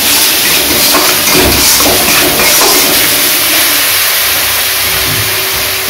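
Spice paste sizzling in oil in an aluminium kadai, a steady hiss, with a steel spatula stirring and scraping through it.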